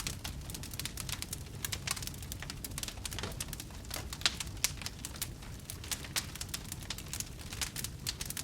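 Wood fire crackling, with irregular sharp pops and snaps several times a second over a low steady rumble of burning.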